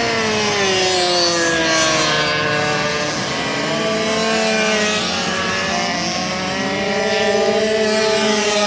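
Several racing minibike engines running at once, each at its own pitch, their revs rising and falling and crossing over one another.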